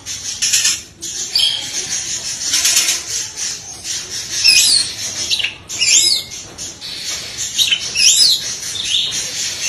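Oriental magpie-robin singing a rapid string of harsh, rasping chatter bursts broken by quick whistled swoops and trills, most of them high-pitched.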